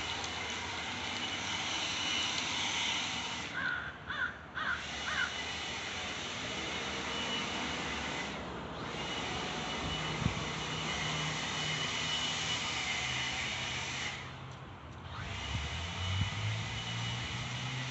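A vacuum cleaner runs with a steady whine, its noise dipping briefly three times. A few short high calls come through about four seconds in.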